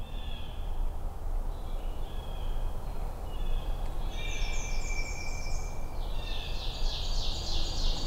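Songbirds singing in a forest: repeated high chirps and warbles, with a fast trill in the last two seconds, over a steady low rumble.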